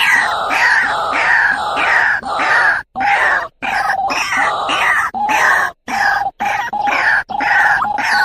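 White-breasted waterhen (ruak-ruak) calling: a loud series of repeated falling notes, about two a second, broken by several short silent gaps. It is the call used to draw in a male waterhen.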